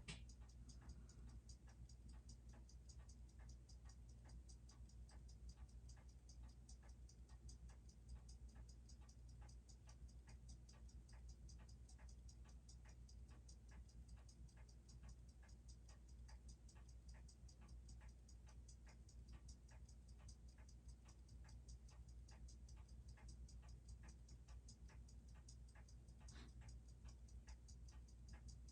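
Seiko 6R15 automatic watch movement ticking steadily and fast, picked up on a timegrapher while its rate and amplitude are checked after the balance hairspring was worked on. A faint low hum runs underneath, and there is one louder click near the end.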